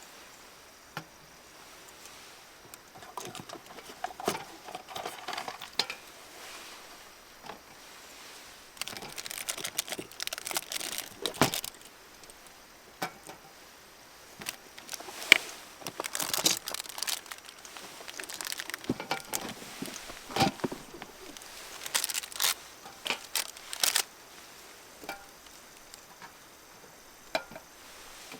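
Irregular crinkling and rustling of something being handled, in several bursts, with scattered sharp clicks and knocks.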